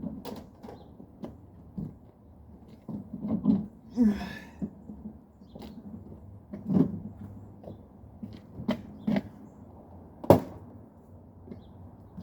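Irregular knocks and clunks with a brief rattle about four seconds in, from handling a vintage refrigerator and its loose inside parts; the sharpest knock comes about ten seconds in.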